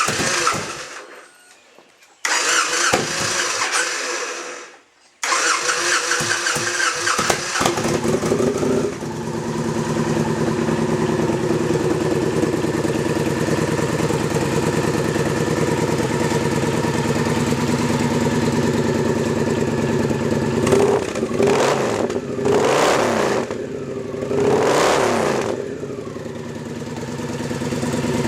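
2009 Victory Kingpin V-twin on its stock mufflers, which have holes drilled in the back to make them louder and freer-flowing. The engine fires briefly twice and dies out, then catches about five seconds in and settles to a steady idle. Near the end the throttle is blipped twice, the revs rising and falling each time.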